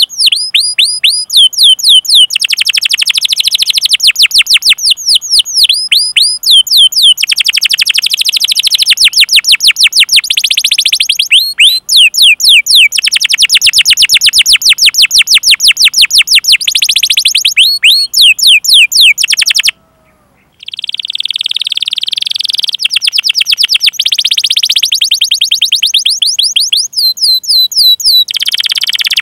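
Domestic canary singing a long, fast song of rapid trills: runs of high, down-slurred chirps repeated many times a second. The song drops out briefly about twenty seconds in, then resumes.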